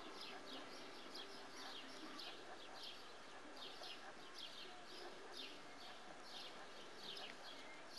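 Small songbirds chirping: a steady, faint run of short, falling chirps, a few each second.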